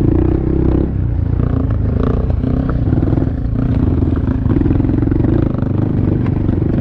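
Honda Monkey's small single-cylinder engine running at low trail speed, its pitch rising and falling a little with the throttle, with a few knocks and rattles from riding over rocks.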